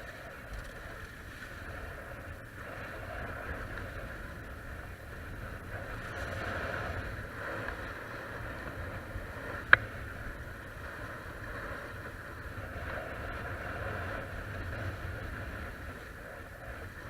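Water rushing along the hulls of a Hobie Cat catamaran under sail, over a steady low rumble, swelling and easing. A single sharp knock about ten seconds in.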